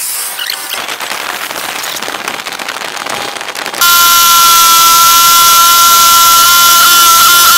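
Crackling wind and road noise, then about four seconds in a sudden switch to a loud, steady high-pitched whine from a motorcycle engine running at speed, picked up by a camera mounted low on the bike; the pitch dips slightly near the end.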